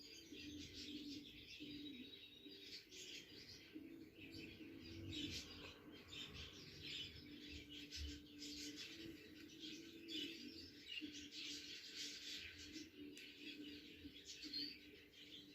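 Budgerigars chirping and chattering continuously, a faint, busy stream of short high chirps and warbles.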